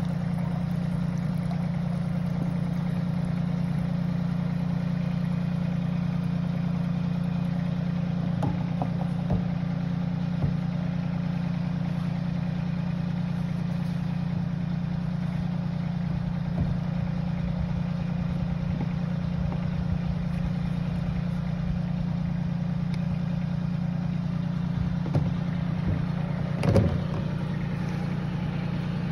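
Tractor's diesel engine idling steadily, with a few light knocks and clatters, the loudest about three seconds before the end.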